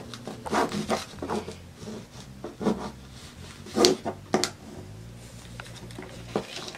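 Sheet of paper rustling and crinkling in several short bursts as it is folded along a crease.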